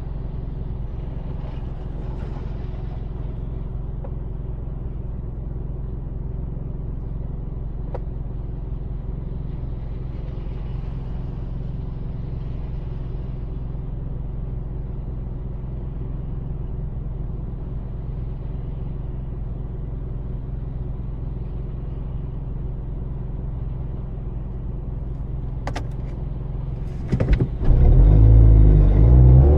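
Steady low rumble of a car being driven on a wet city street. Near the end there are two sharp clicks, then a much louder low rumble whose pitch swings up and down.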